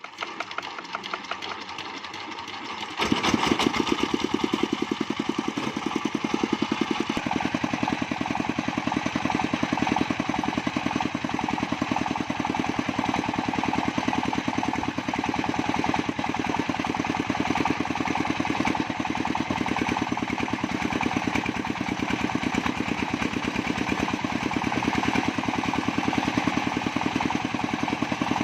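Engine of a portable bandsaw sawmill running with a fast, even beat, quieter at first and then steadily louder from about three seconds in.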